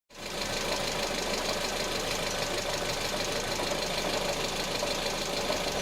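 Car engine running steadily with a fast, even ticking clatter.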